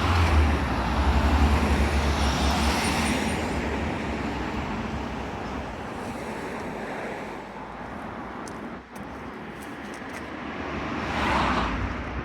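Street traffic: a vehicle with a deep engine rumble goes past at the start and fades away over several seconds, and another vehicle comes up and passes near the end.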